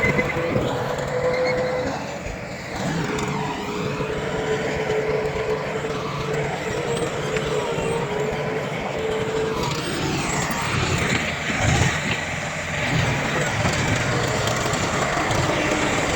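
Diesel engines of earthmoving machinery, a bulldozer and dump trucks, running steadily, with a wavering held whine.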